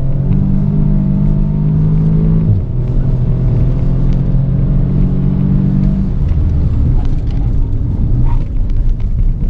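Audi S3 8V's ABT-tuned turbocharged four-cylinder pulling at full throttle, heard inside the cabin. A DSG upshift about two and a half seconds in drops the pitch, then the note climbs again. About six seconds in the throttle is lifted for hard braking, and the engine note falls away under road and tyre noise with some clicks.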